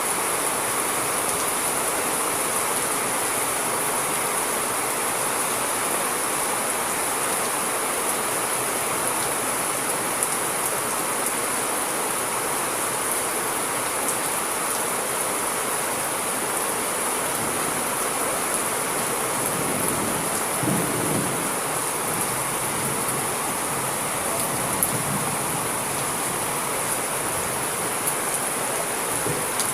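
Steady rain falling, with a brief low rumble of thunder about two-thirds of the way through.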